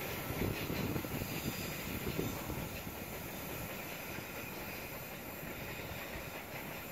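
Passenger train rolling away along the track, its wheels clattering on the rails for the first couple of seconds, then settling into a steady rumble that slowly fades as it recedes.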